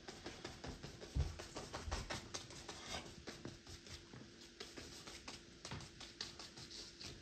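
Paintbrush dabbing and scrubbing on canvas in quick, irregular taps and scratches, with one low thump about a second in and a faint steady hum underneath.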